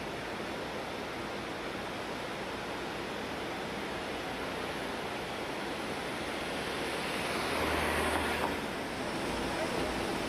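Floodwater of a typhoon-swollen river rushing past in a steady, even wash of noise, briefly swelling a little louder about eight seconds in.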